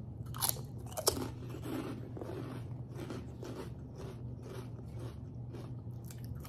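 Pork chicharon (fried pork rinds) bitten with two sharp crunches about half a second and a second in, then chewed with a run of small crunches.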